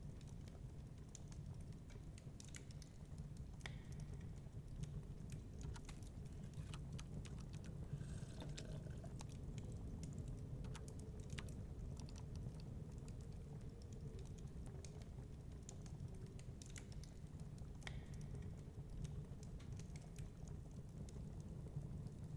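Wood fire crackling in a fireplace, with irregular sharp pops and ticks over a steady low rumble of storm wind.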